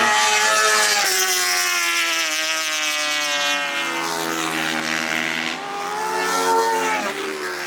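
Superbike engines at high revs, their pitch sliding and dropping sharply about halfway through and again near the end.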